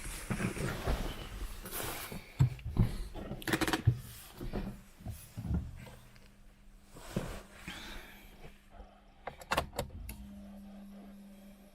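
Irregular knocks, rustling and a few sharp clicks of someone getting into a car and handling it before starting the engine. A steady low hum comes on about ten seconds in.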